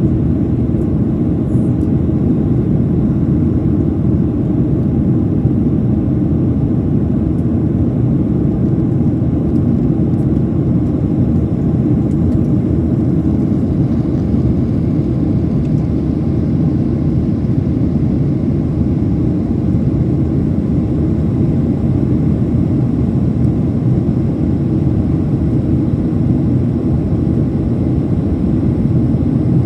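Boeing 737-800's CFM56 jet engines and airflow making a steady, loud low rumble that holds unchanged, as heard aboard the aircraft.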